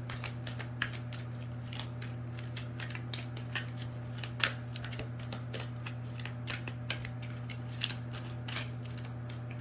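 Tarot deck being shuffled by hand: irregular light snaps and flicks of cards, several a second, with a few sharper ones, over a steady low hum.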